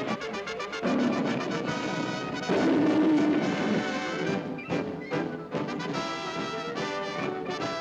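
Orchestral cartoon music with brass, a quick succession of notes.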